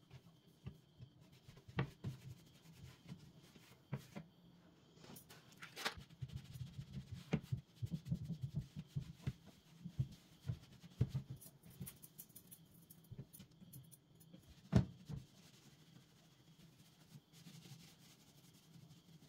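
Household objects being handled and set down during cleaning and tidying: scattered light knocks and clicks with stretches of rubbing and scraping, busiest in the middle, with one sharper knock a few seconds before the end.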